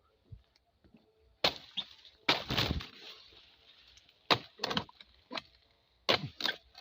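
Sharp chopping blows of a harvesting blade cutting into tough oil palm fronds, hard because the palms went unpruned for a long time. There are about seven strikes, and one about two and a half seconds in is followed by a longer splintering, rustling crash.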